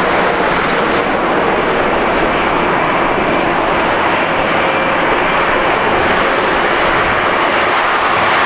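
Jet airliner engines running, a loud, steady rush of noise.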